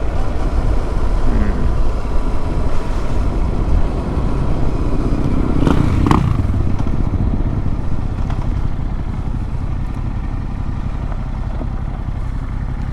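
Yamaha MT-07 689 cc parallel-twin engine running as the motorcycle is ridden, heard through a steady low rumble. There is a brief swell about six seconds in.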